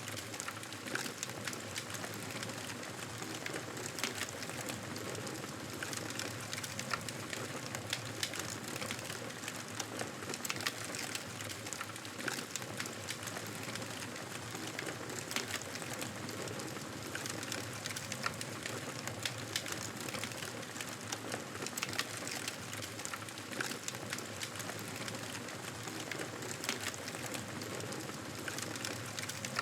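Campfire crackling steadily, with frequent sharp pops and snaps over a soft hiss.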